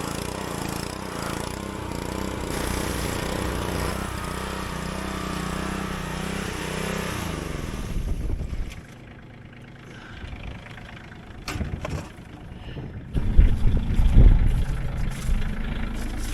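Bobcat CT122 compact tractor's diesel engine running steadily, then winding down and stopping about eight seconds in. A few knocks follow, and about thirteen seconds in a loud low engine rumble starts up again.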